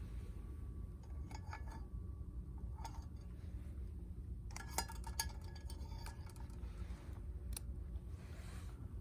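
Light clinks and taps of camp tableware or cookware, a few ringing briefly, with a small cluster about halfway through, over a steady low rumble.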